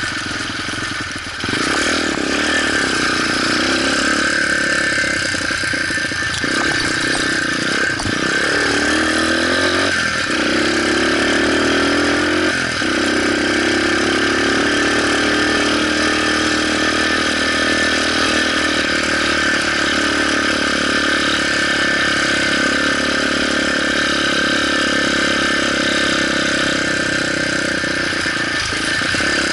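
Motorcycle engine running under way. Its pitch rises and drops back several times in the first dozen seconds, then holds steady.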